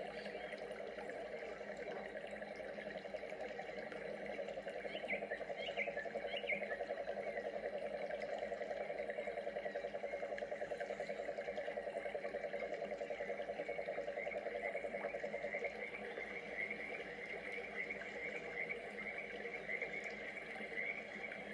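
Rainforest ambience: a steady chorus of rapidly pulsing animal calls, with a few short bird chirps about five to six seconds in.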